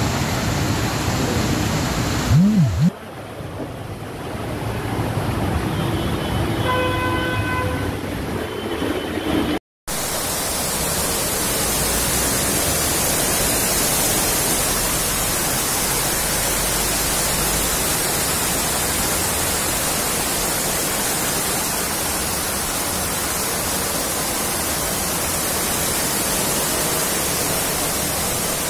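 Heavy monsoon rain pouring down as a dense, steady hiss. Earlier, over rain on a flooded street, a vehicle horn sounds for about two seconds starting around six seconds in.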